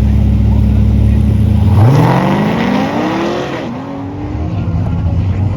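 Drag car's engine launching off the line: a steady low rumble, then about two seconds in the pitch climbs steeply as the car accelerates hard away, with a brief step down near the middle like a gear change, and the sound fades as it pulls away.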